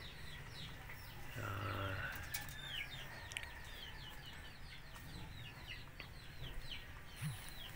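Birds chirping: a quick run of short, high, falling chirps, several a second, with one lower call about a second and a half in.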